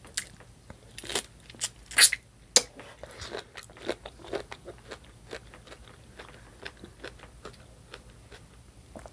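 A person eating close to the microphone: biting and chewing, with sharp crunchy clicks that are loudest in the first three seconds and softer after.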